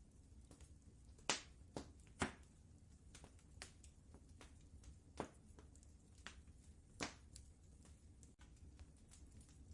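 Wood fire crackling: scattered, irregular sharp pops, a few of them louder, over a faint low rumble.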